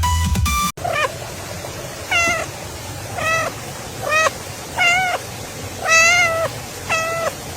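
A cat meowing again and again, about seven short meows roughly a second apart, each rising and falling in pitch. Electronic dance music cuts off abruptly within the first second, just before the meows begin.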